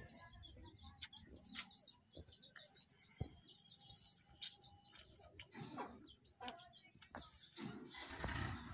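Faint chirping of small birds, many short high calls, with a few soft clicks and taps. A louder rustling noise comes in near the end.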